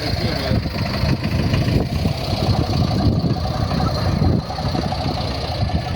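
An engine idling with a low, uneven rumble.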